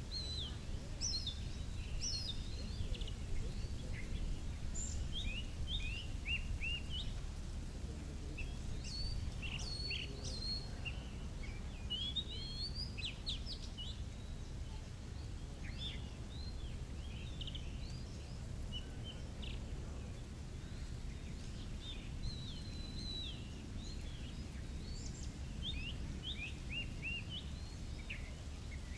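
Birds calling in the trees: many short chirps and quick sliding whistles, scattered all through, over a low steady rumble.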